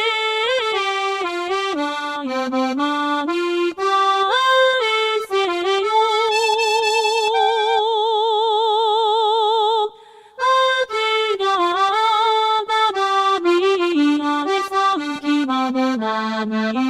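Sampled accordion playing an enka melody in steps, holding one long note with vibrato near the middle. It breaks off briefly before the tune continues.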